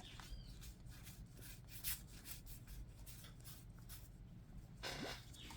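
Yu-Gi-Oh! trading cards being handled and flipped through, with light, irregular rustles and clicks of card stock, and a slightly louder rustle about five seconds in.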